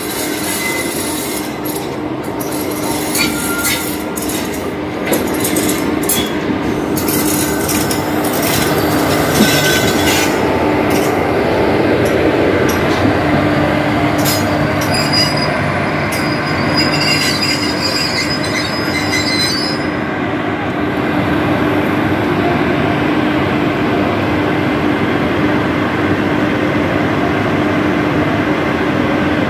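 Electric locomotive and passenger coaches rolling slowly past close by, wheels clicking over the rail joints during the first ten seconds, over a steady low hum. High wheel squeal comes in around the middle, after which a steady rumble and hum remain.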